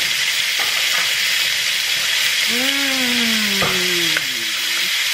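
Chicken thighs frying in a pan, a steady sizzle. From about halfway in, a person's voice is heard in one long sound that falls in pitch, along with a couple of sharp clicks.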